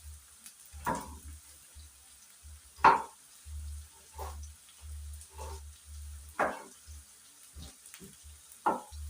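A spoon stirring food frying in a cooking pot, scraping strokes about once a second over a faint sizzle, the loudest stroke about three seconds in.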